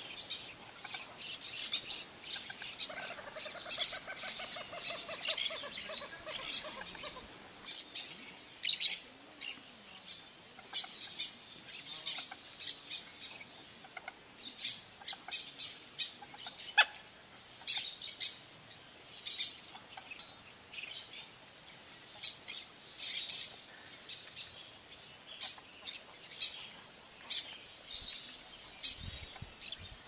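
Wild birds calling: many short, high chirps from several birds repeating throughout, with a lower, rapid series of pulsed notes a few seconds in that slides down in pitch.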